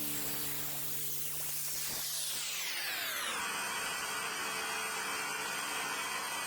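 White-noise sweep falling steadily in pitch over about a second and a half, then a steady hiss: a whoosh-style transition effect between music tracks. A held low note from the music fades out under it.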